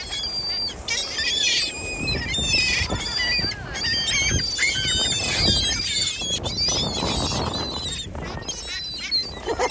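A flock of seagulls calling over one another, a dense mix of high squawks and cries, over a low rumble.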